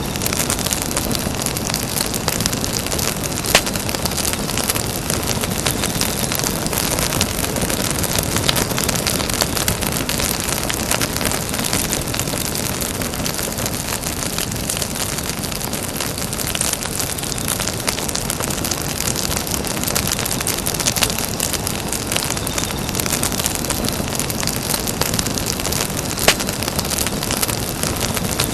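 Campfire burning: a steady hiss of flames with constant fine crackling and a few louder pops.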